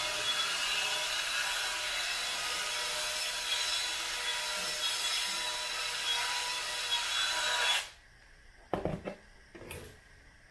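Wet vacuum cleaner running with a steady whine and rush of air, cutting off suddenly about eight seconds in, followed by two short knocks.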